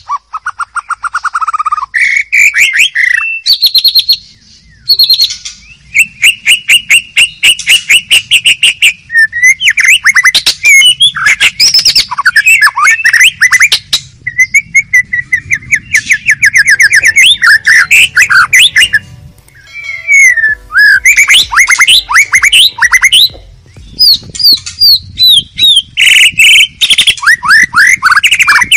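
White-rumped shama singing a loud, varied song of fast repeated notes, trills and rising and falling whistles, with a couple of short pauses.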